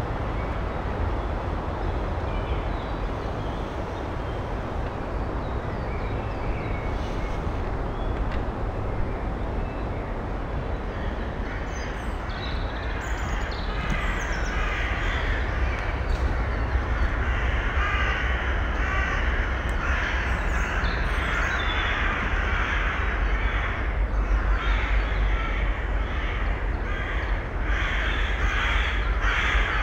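Harsh, rasping bird calls repeated about once a second, starting about twelve seconds in, over a steady low background rumble.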